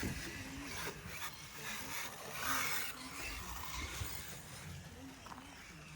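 Radio-controlled rally cars running on a loose-surface track: tyres scrabbling and scraping, with a louder rush about two and a half seconds in.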